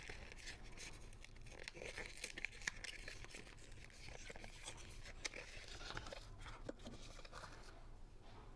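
Soap packaging being torn and crinkled open, a run of rustling and tearing broken by small sharp clicks.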